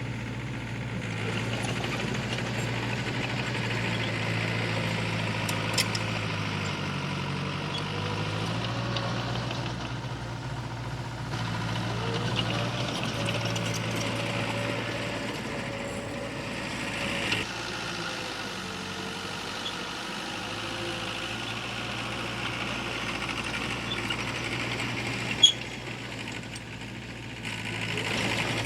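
Diesel engine of heavy earth-moving machinery running steadily, its pitch dipping and recovering briefly about seven seconds in. A few sharp knocks sound over it, the loudest a few seconds before the end.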